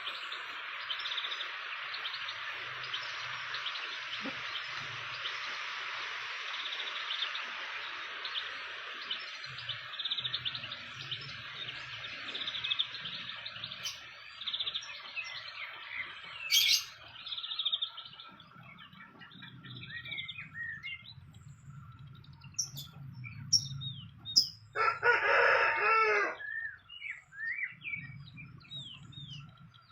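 Outdoor wildlife ambience: a dense, steady insect drone for about the first half, giving way to scattered short bird chirps. About 25 seconds in, a rooster crows once, the loudest sound.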